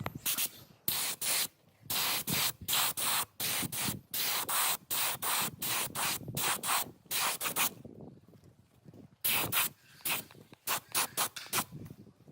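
Rapid back-and-forth rubbing strokes, about two to three a second, in two runs with a short pause after the middle.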